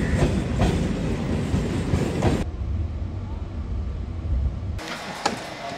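Train running on rails: a steady low rumble with a run of clicks and knocks from the wheels over the first couple of seconds. The sound changes abruptly about two and a half seconds in and again near the end.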